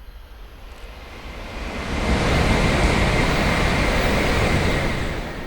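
N700A Shinkansen bullet train passing at high speed. A rushing noise swells about two seconds in, holds for about three seconds, then fades, with a steady high whine through the loudest part.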